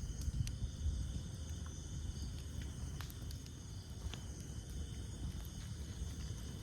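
Wood campfire burning with a low steady rumble and a few sharp crackles and pops, one clearest about three seconds in. Insects chirr steadily and high in the background.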